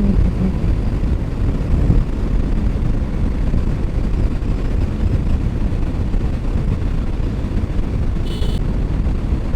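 Steady wind rumble on the rider's microphone from a motorcycle riding at road speed, with the bike's engine running underneath. A brief high-pitched sound near the end.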